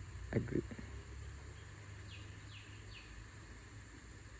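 Faint background ambience of steady low noise, with three short falling bird chirps about two to three seconds in.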